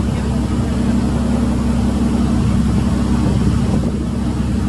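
A riverboat's engine running steadily on board, a constant low drone with the rush of water and wind over it.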